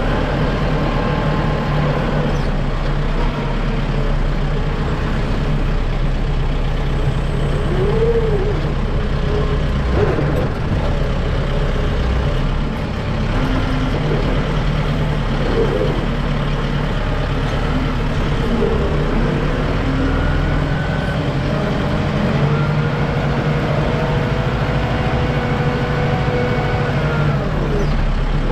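Kubota M6060 tractor's diesel engine running steadily while powering a Titan LW-6 backhoe. Whines rise and fall in pitch over the engine as the backhoe's hydraulics work, with one longer, held whine near the end.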